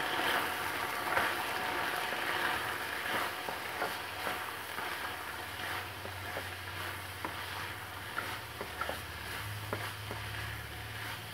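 Soaked green chickpeas and spice powders frying gently in oil in a kadhai while being stirred with a spatula: a soft sizzle with scattered light scrapes and ticks of the spatula against the pan, as the masala is mixed through the chickpeas. A low hum comes up in the second half.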